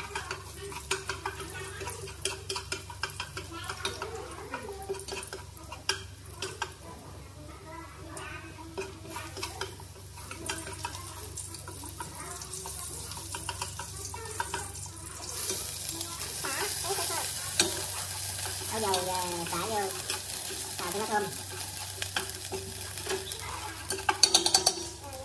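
Chopped aromatics frying in oil in an aluminium stockpot, stirred with chopsticks that tap and scrape against the metal. The sizzle grows louder a little past halfway, and a quick run of sharp taps on the pot comes near the end.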